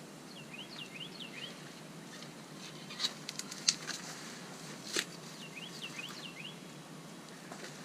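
A small songbird singing twice, each a quick run of about five chirping notes, over a steady hiss, with a few sharp clicks and taps in the middle.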